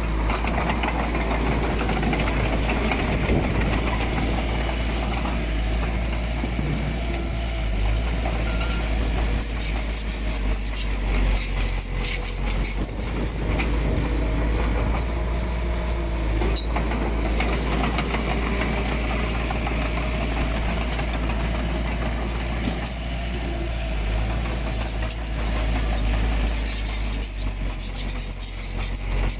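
Diesel engine of heavy earthmoving machinery running steadily with a strong low hum, with spells of sharp metallic clicking about nine seconds in and again near the end.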